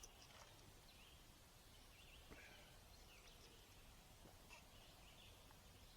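Near silence: faint outdoor ambience with a few soft, scattered bird chirps.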